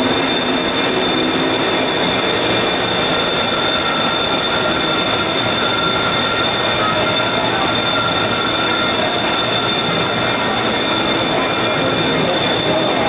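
Subway-styled amusement ride train rolling along its track: a steady, loud rumble with a continuous high-pitched wheel squeal.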